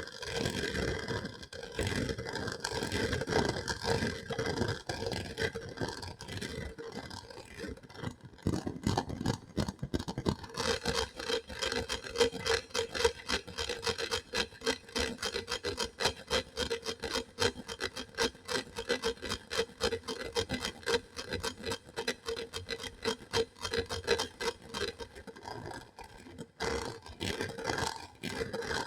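ASMR scratching and rubbing trigger: quick, repeated scraping strokes against a surface, coming denser and more regular from about ten seconds in, with a short pause near the end.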